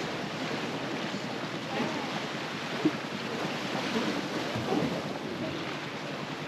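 Sea waves washing and surging, with wind buffeting the microphone; a single short knock about three seconds in.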